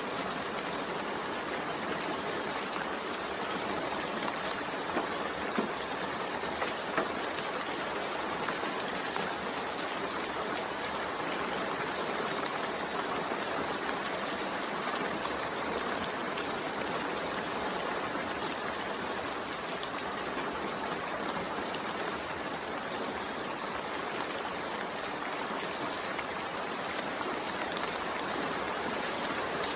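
Steady rain falling, an even hiss of water. A few sharper drop taps come about five to seven seconds in.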